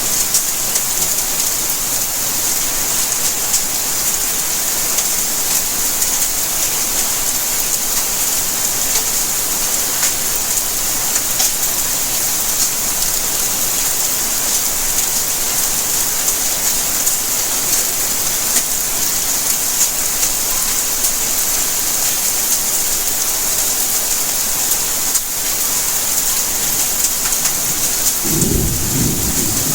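Steady rainfall, a dense hiss with many fine drop ticks pattering on surfaces. Near the end a low rumble of thunder comes in under the rain.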